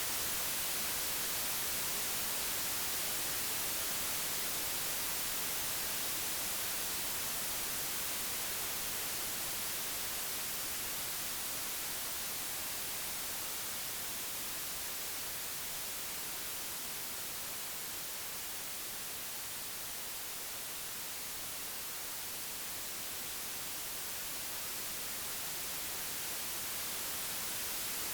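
Computer-generated white noise: a steady, even hiss across the whole range, brightest in the highs, its loudness drifting slightly lower in the middle and rising again near the end.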